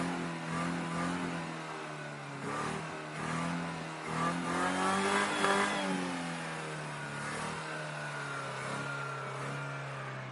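Car engine being revved: it runs steadily, rises in pitch in one rev about four seconds in, falls back about two seconds later and then holds steady.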